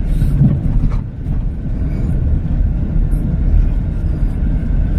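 Car driving along a rough dirt road, heard from inside the cabin: a steady low rumble of engine and tyres, with a few faint knocks.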